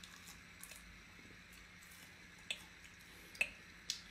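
Faint close-up chewing of a crunchy fried centipede: soft wet mouth sounds with a few small ticks, then three sharp crunching clicks in the second half.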